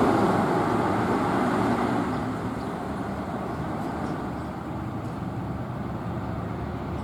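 Road traffic noise from a passing vehicle, loudest at the start and fading over the first couple of seconds into a steady lower road noise, with no siren.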